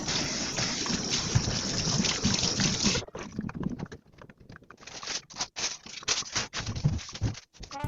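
Kitchen tap water running steadily into the sink, shut off abruptly about three seconds in, followed by scattered light clinks and knocks of dishes being handled.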